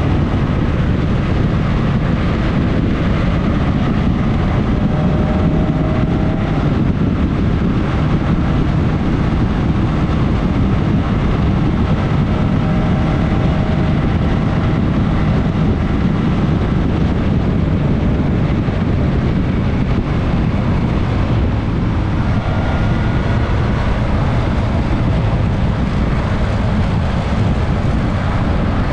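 Onboard sound of a Suzuki GSX-S 1000S Katana's inline-four engine running at steady cruising speed, mixed with heavy wind rush over the microphone. The engine note stays even, with no revving.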